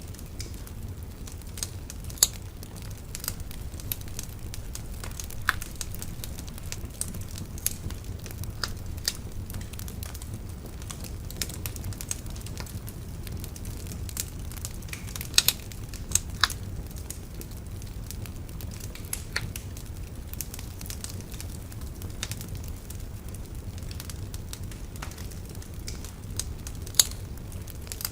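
Wood fire burning: a steady low rumble of flames with irregular sharp crackles and pops of burning wood, a few louder snaps about two seconds in, around the middle, and near the end.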